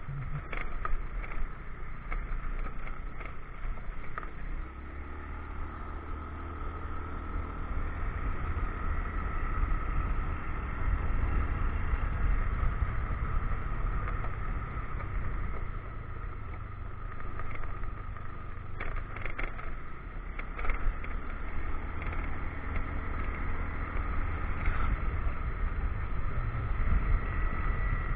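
Motorcycle engine running under way on a rough road, a steady low rumble that swells a few seconds in, with a few short knocks in the middle.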